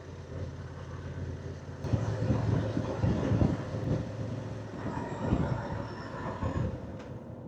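Motorcycle running along a road while being ridden, a steady low engine drone with uneven rumbling swells and wind noise.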